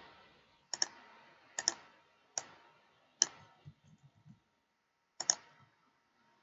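Computer mouse clicks: five short, sharp clicks about a second apart, several of them doubled as press and release, with a longer pause before the last.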